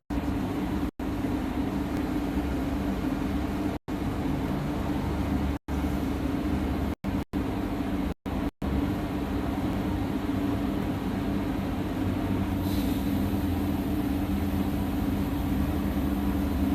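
Diesel particulate filter cleaning machine running steadily, its pump driving pressurised water through the filter to flush out soot and oil: a constant low hum with a rushing wash over it. The sound drops out completely for a moment several times in the first nine seconds.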